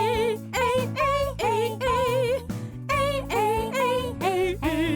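Children's song music: a vocal melody of about seven held notes, each with a wide vibrato, over a steady backing track.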